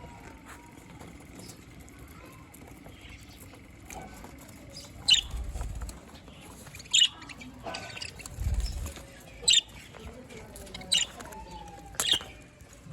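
Budgerigars calling: about five sharp, short chirps a second or two apart over soft warbling chatter, with two brief low rumbles.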